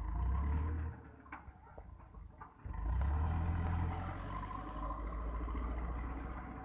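Powertrac tractor's diesel engine running, dropping back about a second in and growing louder again about three seconds in, with a few faint clicks in the quieter stretch.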